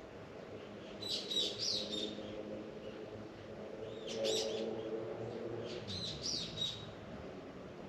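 Songbirds singing in three short chirping phrases, over a steady low hum.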